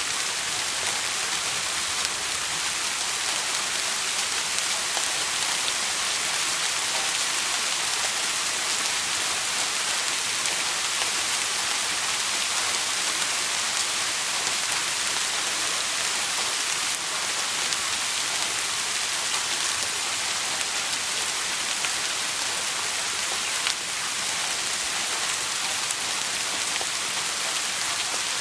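Steady heavy rain, a dense even hiss of rainfall with a few faint scattered ticks of drops.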